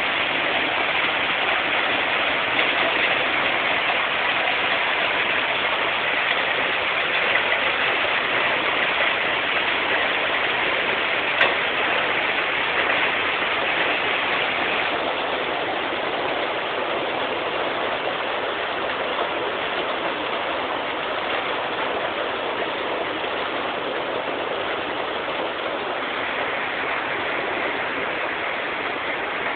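Heavy hail and rain falling hard, a dense, even patter with one sharp knock about a third of the way through.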